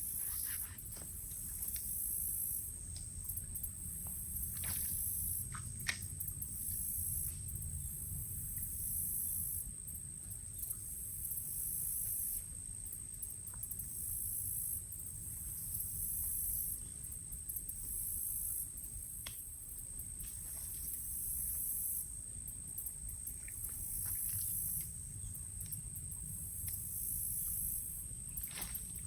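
Insects calling outdoors: a steady high-pitched whine with a higher buzz that starts and stops every few seconds, over a low rumble, with a few faint clicks.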